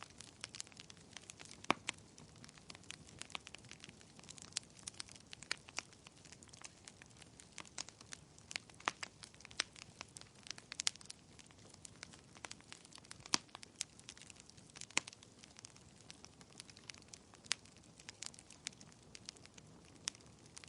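Wood fire crackling: irregular sharp pops and snaps over a soft low hiss, with louder pops about two seconds in and again past the middle.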